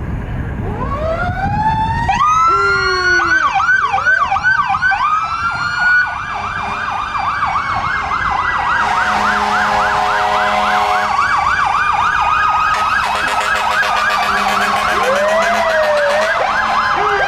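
Several fire truck sirens sounding at once, slow wails rising and falling over one another and then a fast, steady yelp. A steady low fire truck air horn blast joins in about nine seconds in.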